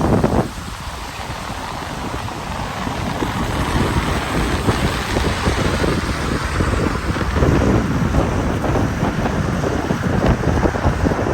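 Wind buffeting the microphone in uneven gusts over a steady hiss of rain, dipping briefly about half a second in.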